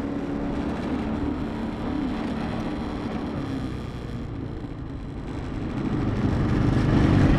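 A car's engine running, a steady low rumble with a faint wavering hum that grows louder over the last second or so.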